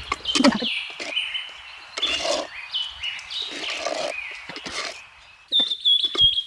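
Birds calling: repeated falling whistles, then a quick run of chirps near the end, over a steady hiss that fades about five seconds in.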